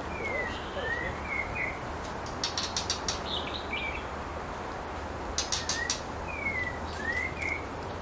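Bird calls: short whistled notes slurring down and then up, in pairs near the start and again near the end. Two quick runs of sharp ticking notes come in between, about two and a half and five and a half seconds in.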